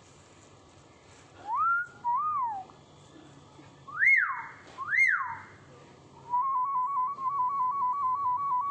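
Hill myna whistling: two short rising-and-falling whistles, then two louder, sharp whistles about a second apart, then a long warbling trill that flicks quickly back and forth between two notes.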